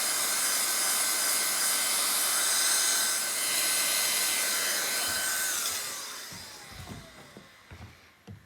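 Electric hot-air blower running with a steady blowing hiss and motor whine, warming a freshly glued patch on an inner tube to help it start curing. About five and a half seconds in it is switched off, and the whine slides down as the fan winds down, followed by a few light knocks.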